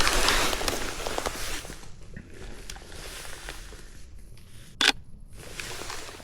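Footsteps crunching and rustling through dry forest-floor vegetation, loudest for the first couple of seconds and then softer, with a single sharp click a little before five seconds in.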